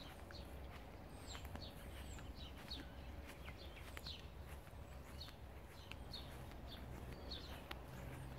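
Small garden birds chirping faintly: many short, high, downward-slurred calls scattered throughout, over a steady low rumble.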